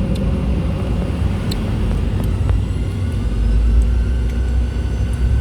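Boeing 717's two rear-mounted Rolls-Royce BR715 turbofans at takeoff power: a loud, steady, deep rumble with a faint whine slowly rising in pitch.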